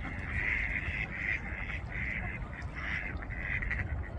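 Ducks quacking, a series of about six calls.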